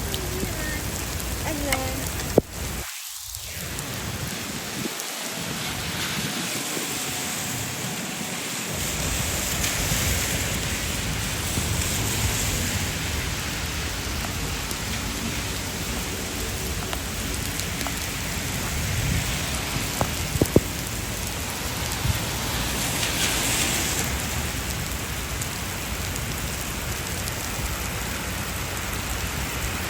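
Heavy rain falling and splashing on the street in a steady hiss, with two sharp ticks, one a couple of seconds in and one about two-thirds of the way through.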